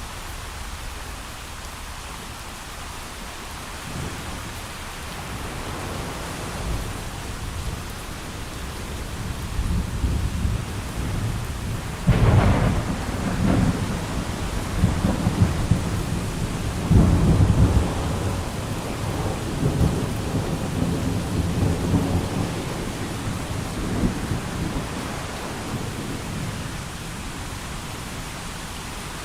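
Rain falling steadily while a long roll of thunder builds, breaks with a sharp crack about twelve seconds in, swells again a few seconds later, then rumbles away.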